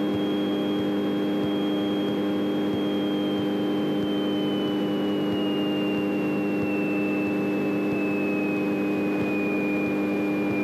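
Light airplane's piston engine running steadily at taxi power, heard inside the cockpit, with a thin high whine that slowly falls in pitch.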